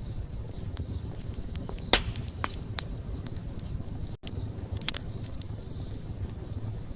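Wood campfire burning with a steady low rumble and irregular sharp crackles and pops. One pop stands out as the loudest, about two seconds in.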